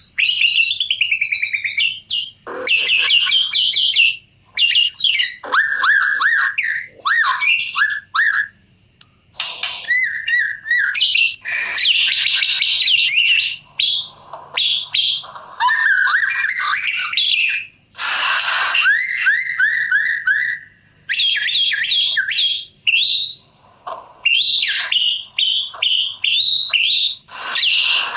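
White-rumped shama (murai batu) singing: loud, varied phrases of whistles and fast gliding notes, delivered in bursts with short pauses between them.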